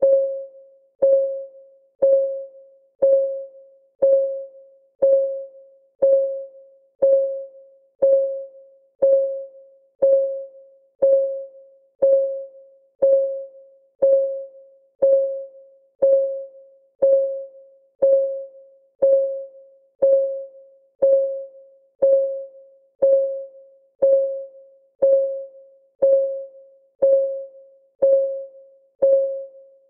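Countdown timer's clock ticking sound: one short, pitched tick every second, each dying away quickly, steady and evenly spaced.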